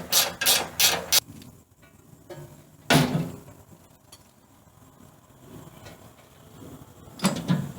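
Metal clicking and clanking as the housing of a clogged wood chipper is opened and worked on: a quick run of clicks at the start, then a loud clank about three seconds in and another near the end.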